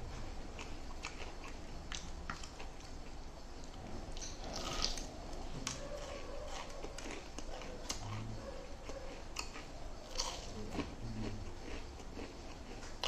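A person chewing and biting food close to the microphone, with irregular wet mouth clicks throughout.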